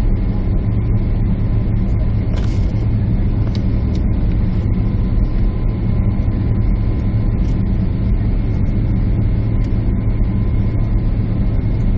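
Steady jet airliner cabin noise: the even, low roar of the engines and airflow heard from a window seat, with a couple of faint clicks a few seconds in.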